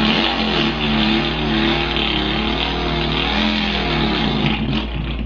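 A man's vocal impression of a Volkswagen engine: a continuous engine-like drone whose pitch wavers up and down, dying away near the end as an imitated stall.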